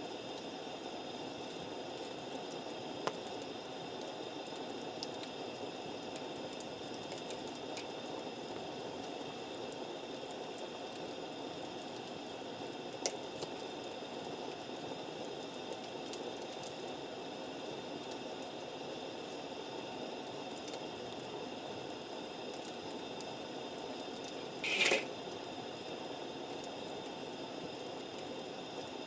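Wood campfire burning with a steady low hiss and a few sharp crackles, and one short, louder burst of sound near the end.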